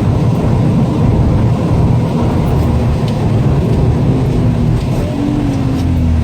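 Subaru STI's turbocharged flat-four engine running loud and steady with road noise, heard from inside the cabin, its pitch shifting slightly a little past the middle.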